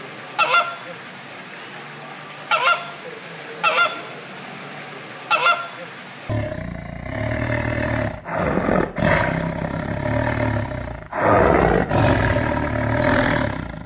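Flamingos honking, short goose-like calls every second or two. About six seconds in, the sound changes abruptly to a loud, rough, continuous growl from a spotted big cat, broken by a few short pauses.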